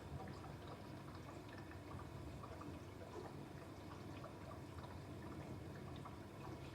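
Dishwasher running mid-cycle, water spraying and dripping inside the tub over a steady low hum, with scattered small ticks and drips.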